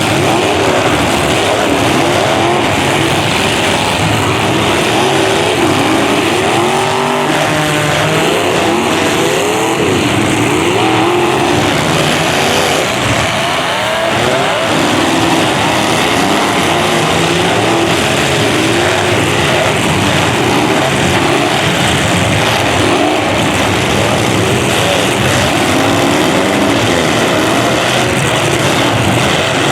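Several demolition derby cars' engines revving hard at once, overlapping pitches rising and falling continuously and loudly.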